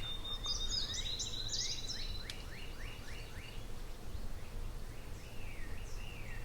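Wild songbirds singing: a high thin trill in the first second or so, then a run of about eight quick slurred whistles, over a low steady rumble.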